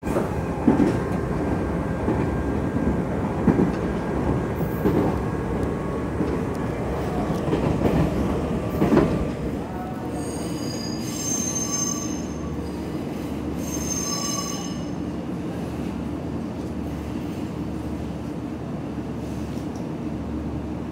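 Nankai electric train running on track, with a loud rumble and a few knocks as the wheels cross rail joints. At about nine seconds it goes quieter and steadier. Two high metallic squeals follow, then a steady low hum from the train.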